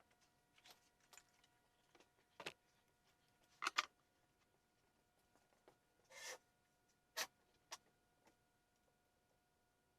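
Scattered faint clicks and knocks, about seven in all, the loudest a quick double knock near four seconds in and one brief rustle about two seconds later, over a faint steady electrical hum.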